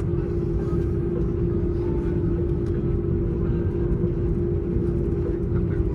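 Cabin noise inside an Airbus A330-200 rolling on the ground after landing: a steady rumble with a constant low hum running through it.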